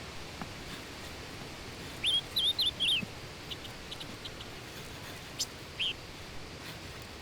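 A bird calling: a quick run of four or five short, twittering chirps about two seconds in, and a single chirp near six seconds, over a steady background hiss.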